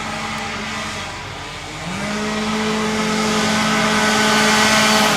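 Flat track racing engines running hard at a steady high pitch as the machines race past. The sound dips briefly about a second in, then a louder engine comes in near two seconds and builds as it approaches.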